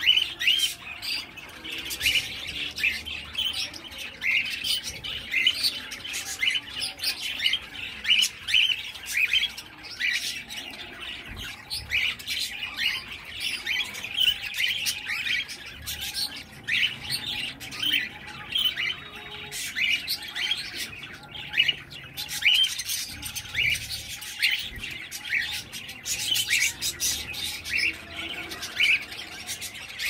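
Cage birds chirping, many short high calls repeated several times a second.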